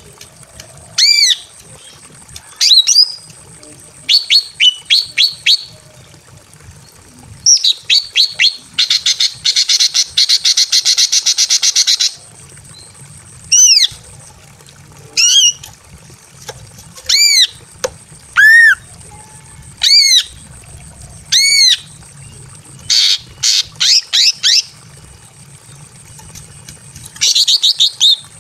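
Female greater green leafbird calling repeatedly in breeding condition, calling for a male. The calls are sharp, high, arched notes given singly or in short runs. About a third of the way in comes a fast rattling chatter lasting about three seconds.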